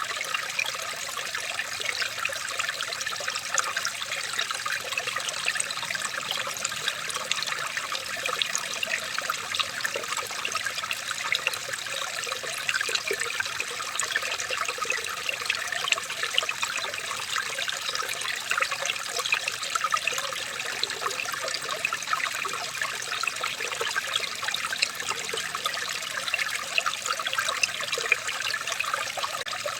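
Running water trickling and bubbling steadily, a dense patter of small splashes with no pause or change.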